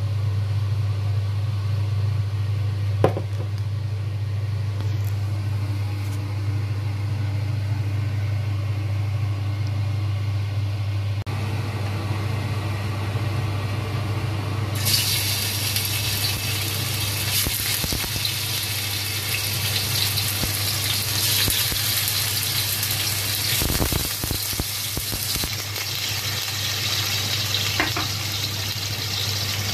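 Tofu pieces frying in hot oil in a stainless steel wok: a loud, steady sizzle that starts about halfway through. Before it there is only a steady low hum and a single click.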